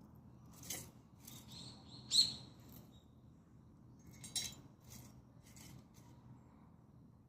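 Dead perilla branches burning in a Solo Stove wood stove, the fire crackling with scattered sharp pops over a low steady rush. The loudest pop comes about two seconds in, with a brief high whistle-like tone, and a smaller cluster of pops comes at about four and a half seconds.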